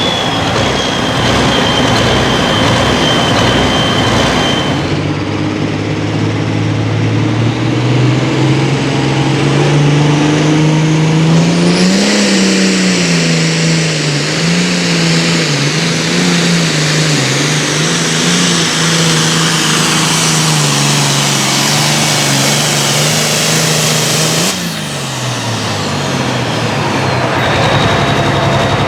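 Super Farm pulling tractor's turbocharged diesel engine running flat out under load during a pull. Its pitch climbs, then wavers up and down over a heavy rush of noise. About 25 seconds in the throttle is cut, and the engine note falls away.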